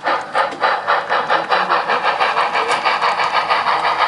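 Model K-27 steam locomotive's sound system chuffing steadily at about five beats a second as the engine moves during yard switching.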